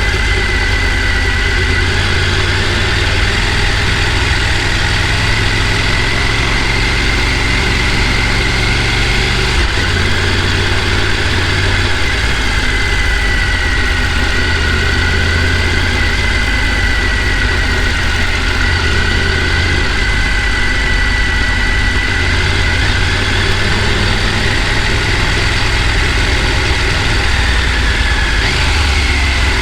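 Rushing water of a mountain stream, a loud, even rush that does not let up, with a steady, slightly wavering high tone running above it.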